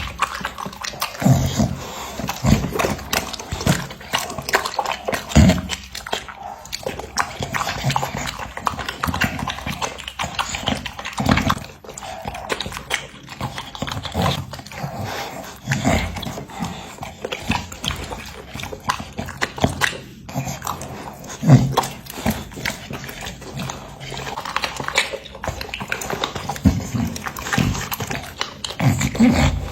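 Bully-breed dog eating meat: irregular wet chewing, smacking and crunching, with occasional louder low thuds.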